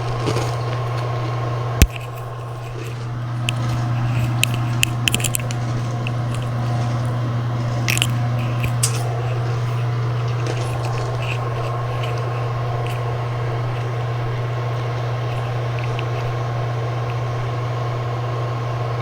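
A steady low hum with a faint steady tone above it, broken by scattered short clicks and crunching sounds; the sharpest click comes about two seconds in.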